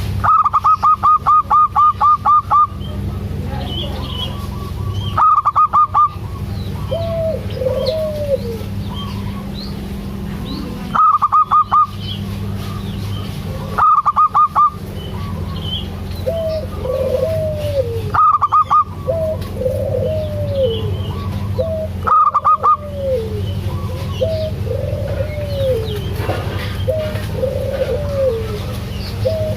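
Zebra doves (perkutut) calling: six loud bursts of rapid, clipped high notes recur every few seconds, with lower arched cooing notes repeating between them. A steady low hum runs underneath.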